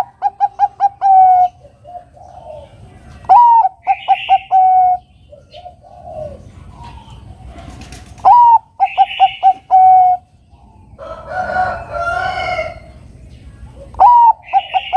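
Zebra dove (perkutut, Bangkok strain) singing its cooing song four times, about every five seconds. Each phrase is a rising-then-falling opening note, then a quick run of short coos, ending on a longer coo. A rougher, different call comes about eleven seconds in, and faint chirps from other birds sound between the phrases.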